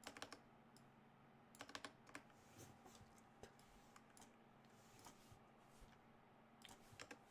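Faint typing on a computer keyboard: scattered short runs of keystrokes.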